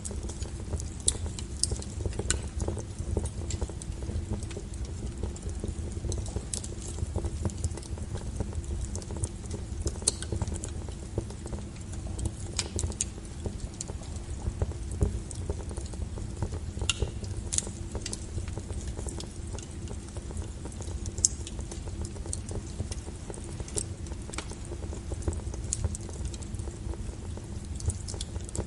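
Wood fire burning with a steady low rumble, and irregular crackles and sharp pops from the burning logs scattered throughout.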